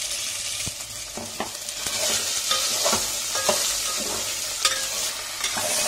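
Boiled, peeled taro pieces sizzling as they fry in hot oil with a mustard-seed and curry-leaf tempering in a metal pot, stirred with a metal ladle that scrapes and knocks against the pot every half second or so.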